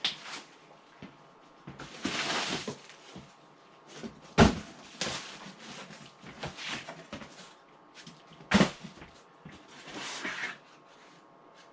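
Cardboard packaging being handled and pulled apart, scraping and rustling in short spells, with two sharp knocks, one about four seconds in and another about eight and a half seconds in.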